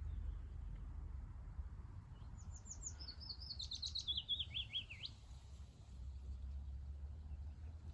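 A small songbird sings one phrase of quick sweeping notes that step down in pitch, lasting about two and a half seconds and starting a little over two seconds in, over a low steady rumble.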